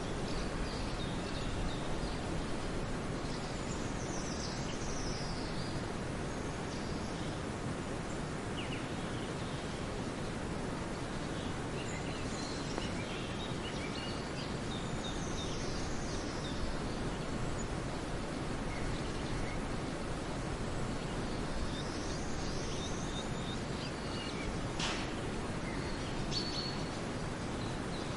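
Outdoor ambience: a steady background rush of noise with wild birds calling over it, several high whistles that slide downward and scattered short chirps. A single sharp click sounds near the end.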